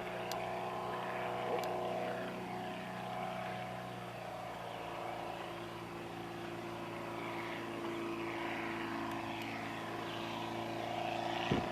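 Light aircraft engine and propeller of a Fokker replica triplane droning steadily, its pitch holding level.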